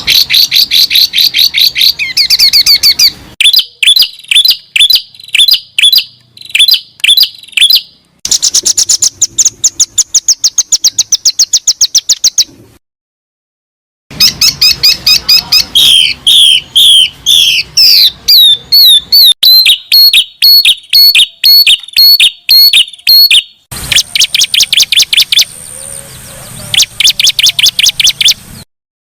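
Recorded songbird song: fast trills and runs of repeated high chirps in rapid phrases, in sections separated by abrupt silent gaps, one about 13 seconds in and another near the end.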